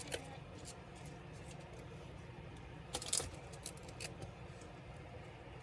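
Small hard clicks and taps of laptop parts and tools being handled, a louder cluster about three seconds in, over a steady low hum.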